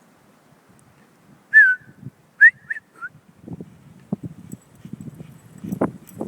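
Four short high-pitched calls in quick succession, then a rising series of crunching footsteps in deep snow that grows louder near the end.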